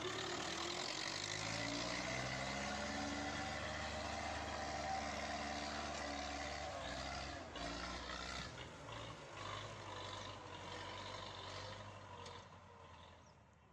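MTZ-82 tractor's diesel engine running under load, its revs rising and falling as it strains while stuck in mud, fading out near the end.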